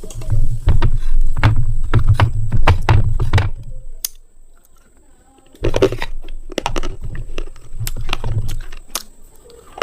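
Slate pencils being bitten and chewed close to the microphone: rapid sharp crunches over heavy low thumps, in two runs with a quiet pause of about a second and a half between them.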